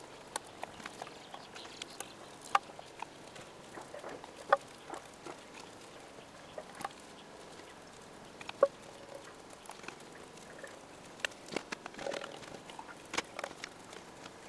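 Scattered light clicks and taps at irregular intervals, a few of them with a short ring.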